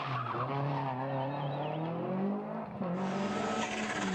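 Rally car engine at full effort, its pitch sinking and then climbing again as it is driven through the gears, with a short drop about two and a half seconds in.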